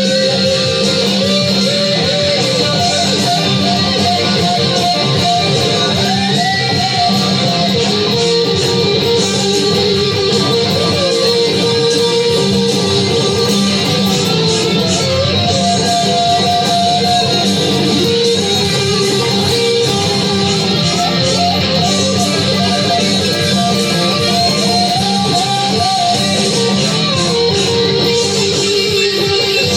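Electric guitar music: a lead guitar playing a solo of bending, wavering notes over a steady rhythm guitar and bass.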